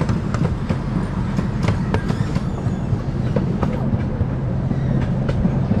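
Miniature park train rolling along narrow-gauge track, heard from aboard: a steady low rumble with irregular clicks from the wheels on the rails.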